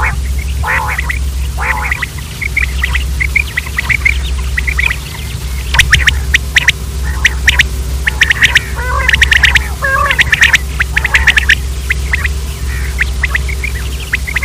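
Quail calling: short, sharp notes repeated in quick runs, busiest from about six to twelve seconds in, over a steady low hum.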